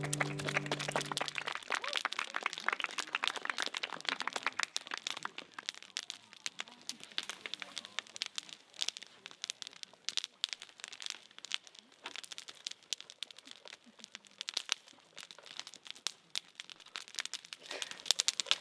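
Fire crackling and popping in a steady run of irregular sharp cracks, with the last strummed guitar chord dying away in the first second.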